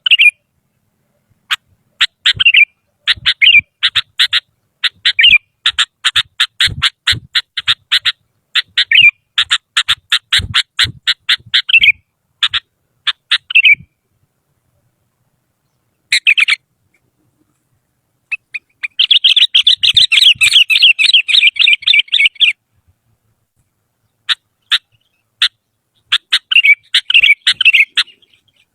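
Sooty-headed bulbul (kutilang) calling: runs of quick, sharp chirps broken by short pauses, with a dense chattering phrase about two-thirds of the way through.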